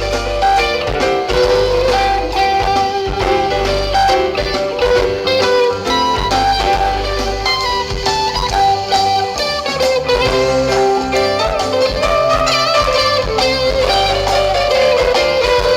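Live rock band playing an instrumental passage: guitar lead lines, some held and some sliding in pitch, over a steady bass and drums.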